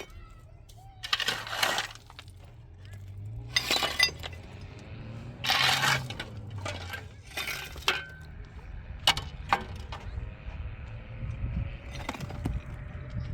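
Hard material clattering and crashing down, four heavier crashes about two seconds apart, then a few short knocks and clinks, over a low steady rumble.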